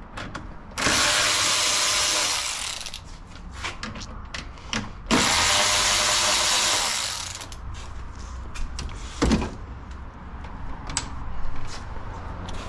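A power drill/driver running twice, about two seconds each time, backing out two T25 Torx screws. Scattered small clicks follow, with one sharp knock about nine seconds in.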